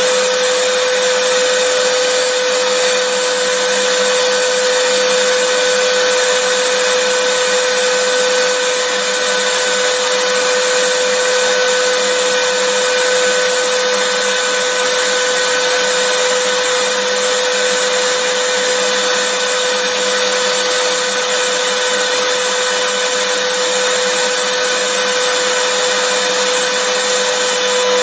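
Vacuum cleaner running steadily, a loud even rushing noise with a constant motor whine, played as white noise.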